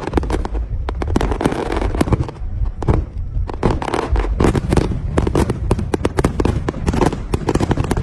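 Fireworks display, a rapid, irregular barrage of bangs and crackles with a continuous rumble beneath.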